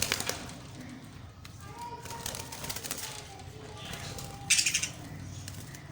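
Budgerigars chirping and chattering in short, rapid, scratchy bursts. The loudest burst comes about four and a half seconds in.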